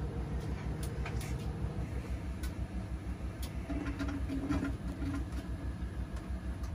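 Washing machine drum turning at speed: a steady, low rhythmic hum pulsing about ten times a second, with scattered light ticks.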